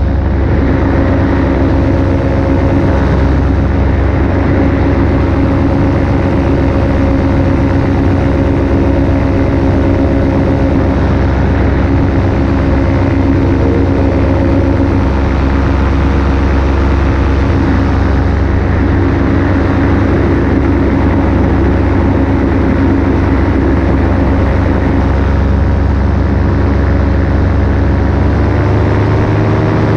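Paramotor engine and propeller running steadily at cruise power in flight, its pitch rising near the end as the throttle is opened up.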